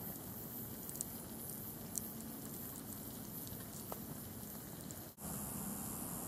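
Wood fire burning in a woven stainless-steel tripod fire stand: a steady hiss with a few faint crackles. About five seconds in, the sound breaks off abruptly and a steadier hiss follows.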